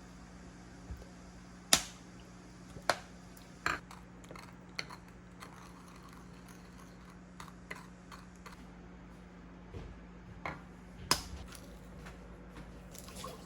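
Irregular sharp clicks and knocks, several of them loud and most of them quieter, over a steady low hum.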